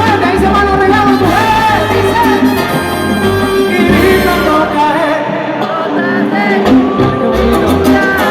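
Salsa orchestra playing live, melody lines over bass and percussion; the bass drops out for about a second and a half midway, then comes back in.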